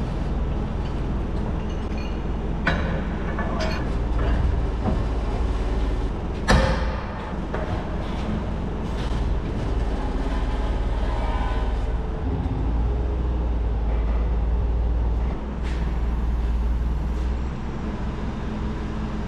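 Forklift engine running steadily, with a few sharp metal clanks and one louder bang about six and a half seconds in as the steel wheel rims are handled.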